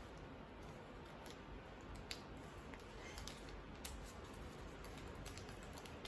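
Sheet of origami paper being folded and creased by hand, with faint scattered crinkles and small ticks of the paper.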